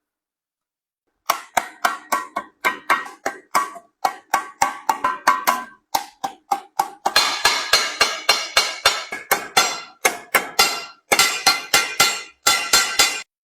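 Hammer blows on brass sheet metal, about three or four a second, as the bottom is fitted onto the ashtray's body. Each strike carries a short metallic ring, and from about halfway the blows come faster and ring longer, with a couple of brief pauses.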